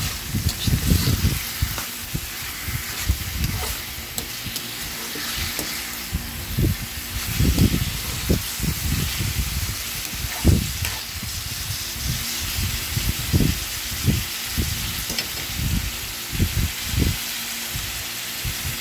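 Chicken pieces sizzling steadily in hot oil in a wok as they sauté with onion and garlic, with a metal spatula stirring at the start. Irregular low thuds sound throughout.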